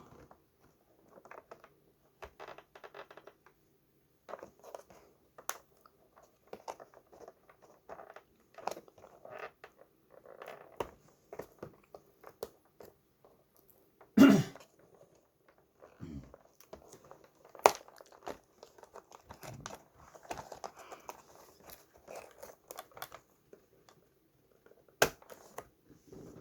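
Packaging crinkling and tearing as it is handled, in irregular rustles, with a few sharp knocks.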